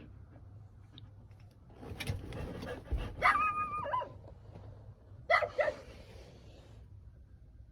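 A dog barking and yelping: a burst of calls ending in a drawn-out high cry about three seconds in, then two short sharp barks about two seconds later.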